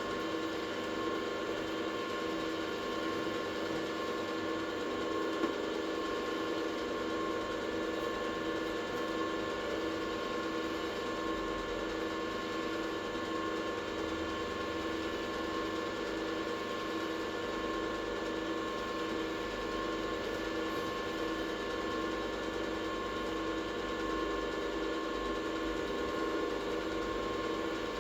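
Workshop machine motor running steadily with an even, multi-toned hum, and a single sharp click about five seconds in.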